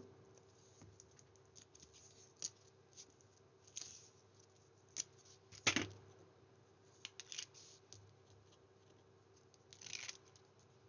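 Card and paper being handled during card-making: scattered light clicks, taps and rustles, the loudest a sharp tap a little past the middle, over a faint steady hum.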